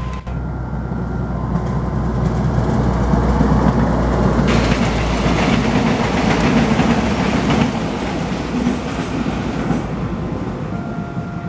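A multiple-unit passenger train passes close by: a rumble of the train running on the rails that builds to its loudest in the middle, with a few seconds of hiss, then eases off as it moves away.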